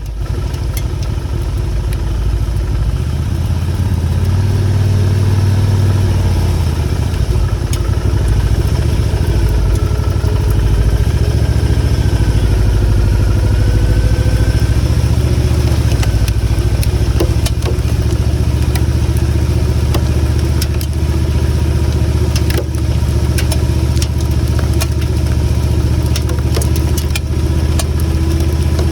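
Motorcycle engine running steadily under way, its note rising and falling once about five seconds in, with scattered short ticks in the second half.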